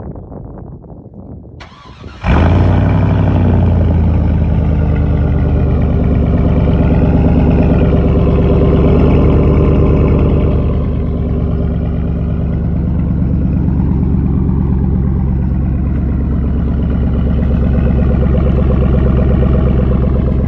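2002 Chevrolet Silverado's 5.3-litre V8 cold-starting through straight-piped true dual exhausts with an X-pipe. It fires about two seconds in and then runs at a loud, steady idle that eases slightly about ten seconds in.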